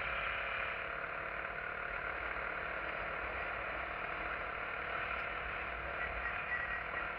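SYM XS125-K motorcycle's 125 cc single-cylinder engine running steadily at a slow riding pace, mixed with wind noise on the camera microphone.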